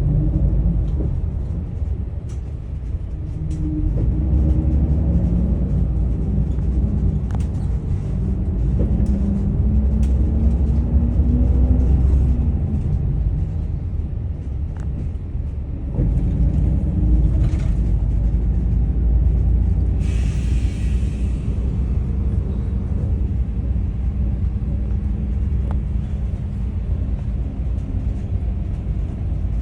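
Daewoo FX116 bus's diesel engine running under way. Its revs climb from about 4 seconds in until a gear change at about 12 seconds, and it then runs steadily. There is a short hiss of air about 20 seconds in.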